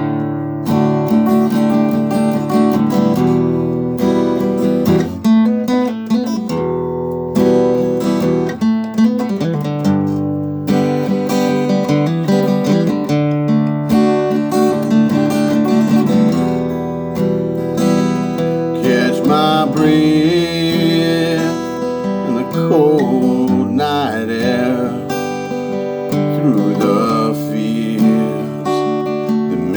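Acoustic guitar strummed, playing chords through an instrumental passage of a song.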